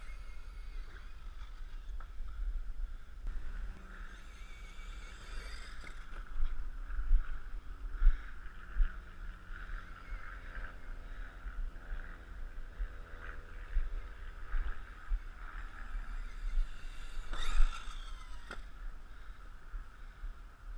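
Electric radio-controlled monster truck driving, its motor whining and gliding up and down in pitch with the throttle, over a steady low rumble, with a few sharp louder knocks along the way.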